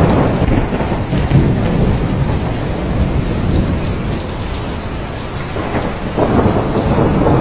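Heavy rain falling with thunder rumbling, the rumble easing in the middle and swelling again about six seconds in.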